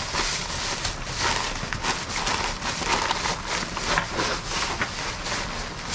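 Rain falling on surfaces, with irregular crackles and taps.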